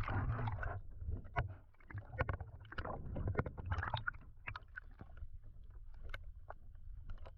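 Irregular clicks, knocks and small splashes on a plastic fishing kayak, over a steady low rumble of wind and water.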